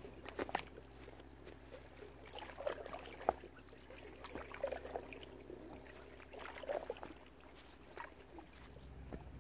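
Waterfowl feeding at the water's surface: an irregular scatter of small splashes and wet bill clicks.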